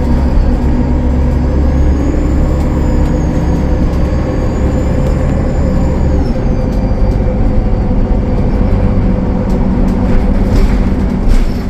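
Cummins ISL9 diesel engine of a Gillig Low Floor bus running under load, with a faint high turbocharger whistle that rises and falls. The engine note drops about halfway through, and there is a short burst of noise near the end.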